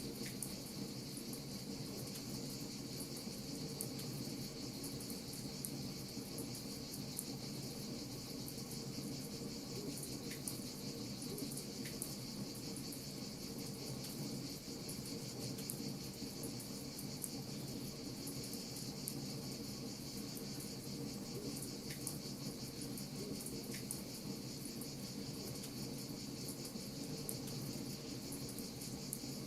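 Crickets trilling steadily over a low, even rush, with a few faint crackles from a wood fire now and then.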